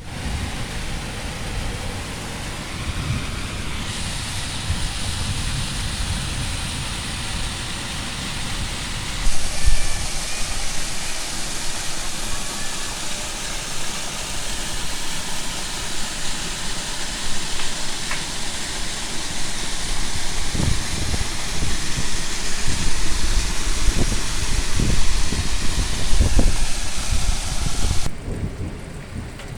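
Heavy rain pouring in a loud, steady hiss, with low thumps of wind buffeting the microphone in the second half. The hiss thins abruptly near the end.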